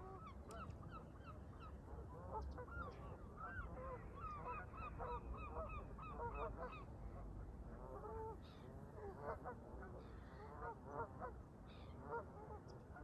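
A flock of Canada geese honking, many short calls overlapping in quick succession, thinning out to scattered honks in the second half. A steady low rumble of wind runs beneath.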